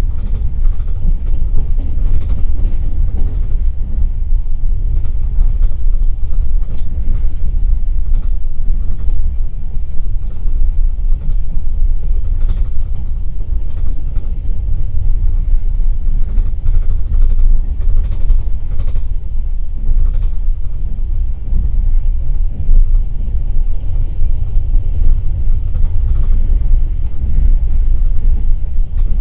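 Passenger train under way, heard inside a platskart passenger car: a steady loud low rumble of wheels on rails, with frequent light clicks and creaks from the carriage.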